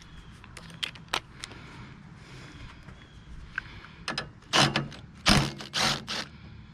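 Mechanical workshop noises from hand tools and metal engine parts being handled: scattered sharp clicks, then four loud rasping bursts in quick succession about two-thirds of the way through.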